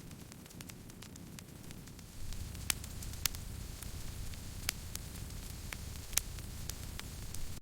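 Campfire burning: scattered sharp crackles and pops from the burning wood over a low rumble of the flames, which grows louder about two seconds in.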